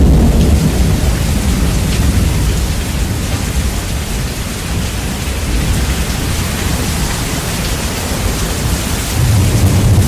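Heavy rain, bass-boosted, with a hiss of rain over low rolling thunder. The rumble eases after the first second and swells again near the end.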